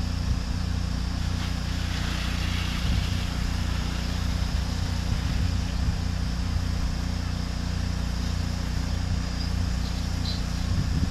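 Pressure washer engine running steadily, with the even hiss of high-pressure water spraying from the wand.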